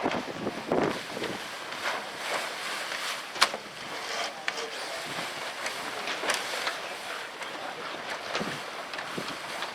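Wind on the microphone with scattered clicks and knocks from skiff rigging gear being handled. The sharpest click comes about three and a half seconds in.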